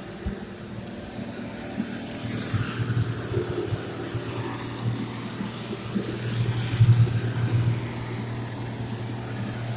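A steady, low motor hum, with a brief high hiss about a second in and a few louder surges near the middle.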